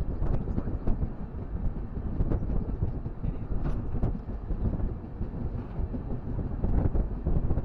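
Passenger train running on the rails: a steady low rumble with scattered clicks and knocks.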